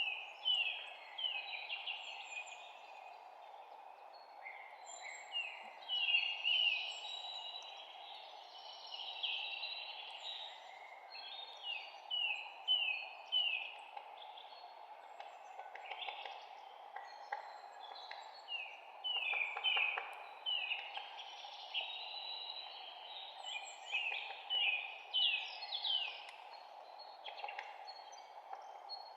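Several songbirds chirping, with many short falling notes in quick runs, over a steady low background hiss.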